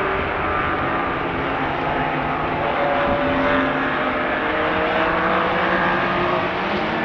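Racing car engine running hard on a circuit, its pitch climbing slowly over several seconds, over a dense rushing noise.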